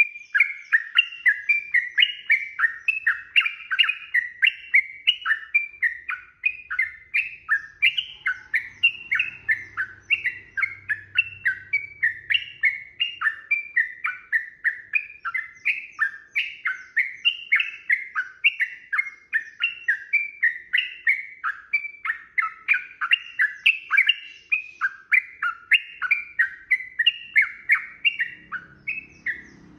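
Sooty-headed bulbul (trucukan) singing a long, unbroken rapid run of short chirping notes, about three a second, stopping just before the end.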